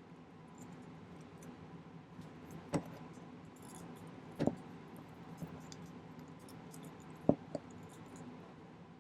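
A few light, sharp metallic clicks, as small sterling silver wire links are handled and set down on the bench, over a steady background hum.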